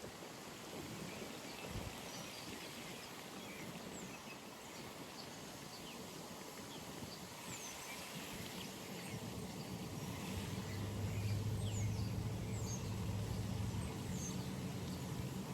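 Pond-side ambience with scattered short bird chirps, while a distant engine drone comes in about halfway through and grows louder, a steady low hum that peaks a few seconds later.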